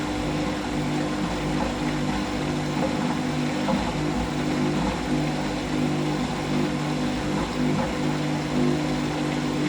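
Hoover Whisper AAA160 washing machine's drum motor running with a steady, even hum while it tumbles the load to balance it before a 400 rpm intermediate spin.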